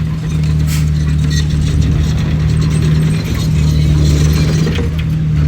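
Komatsu D31PX bulldozer's diesel engine running steadily, with irregular clanks and squeaks from its steel tracks and undercarriage as it works.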